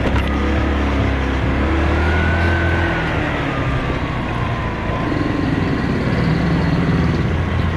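Motorcycle engine running as the bike sets off and rides on, its pitch rising and falling with the throttle.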